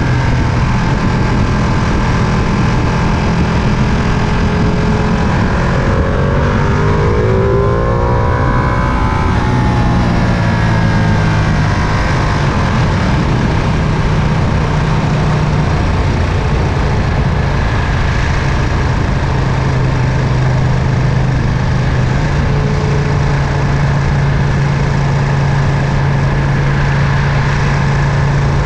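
Ducati Panigale V2's twin-cylinder engine running under way at a steady pitch, with wind rushing past. About six seconds in, the engine note rises and then falls back over a few seconds.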